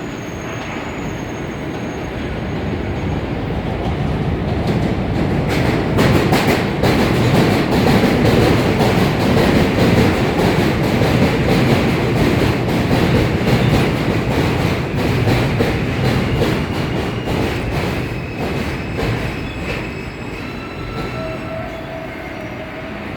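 A train of R42 subway cars passing, growing louder to a peak about a third of the way through and then fading. Its wheels click over rail joints, with brief thin wheel squeals near the start and near the end.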